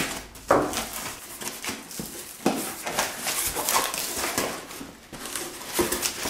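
Cardboard shipping box being handled and opened, with irregular rustling, scraping and sharp clicks of cardboard and packaging.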